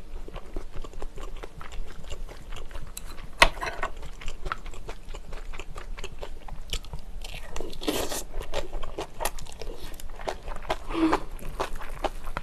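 Close-miked chewing of cabbage kimchi and rice, with wet crunching and smacking clicks throughout and a louder mouthful about eight seconds in. A single sharp click about three and a half seconds in.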